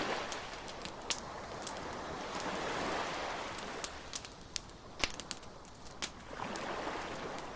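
Beach bonfire crackling with scattered sharp pops, over the wash of waves on the shore that swells about three seconds in and again near the end.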